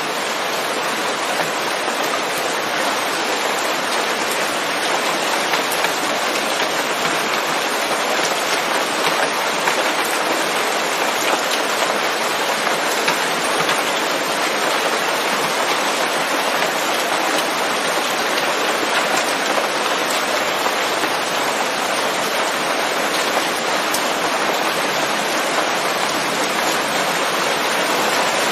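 Steady rain falling on forest leaves: a dense, even hiss of countless drops, with no thunder.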